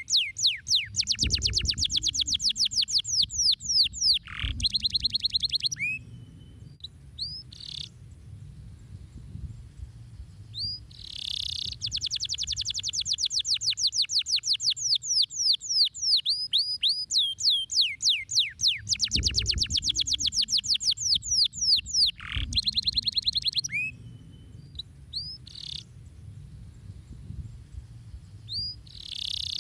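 Domestic canary singing: long, fast trills of rapidly repeated sweeping notes, broken twice by quieter stretches of a few separate chirps, the same run of phrases coming round again about halfway through.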